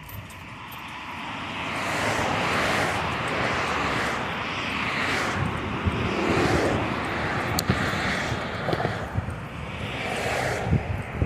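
Motor traffic rushing past on a road, with the steady noise of tyres and engines building over the first two seconds and then rising and falling in waves as vehicles pass.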